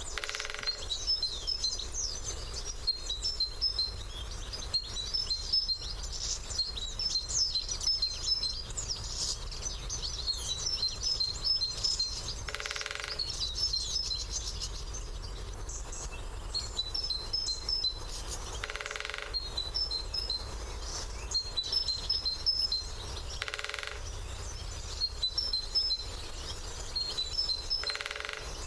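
Great spotted woodpecker drumming on a hollow branch: about five short, rapid rolls several seconds apart. Small birds twitter high and without a break throughout.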